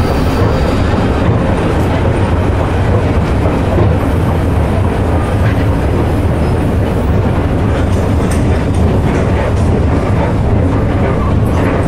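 Train running on rails: a steady, loud rumble of wheels and running gear, with a few faint clicks in the last few seconds.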